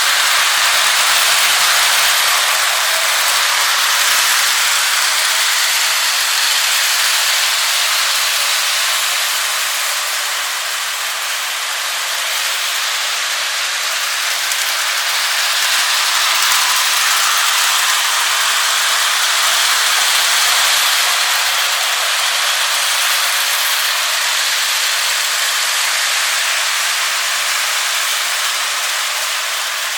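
O scale model train running round its track: a steady rolling hiss and rattle of the wheels on the rails, swelling and fading slightly as it circles.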